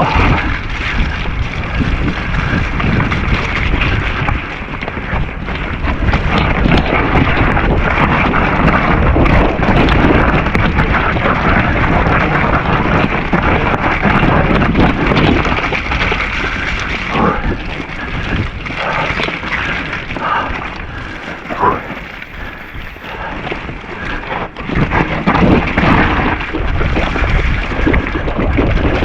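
Wind battering an action camera's microphone as a Nukeproof Giga mountain bike rides a wet trail, mixed with tyre noise and frequent knocks and rattles from the bike over rough ground. The level dips for a while around two-thirds of the way through.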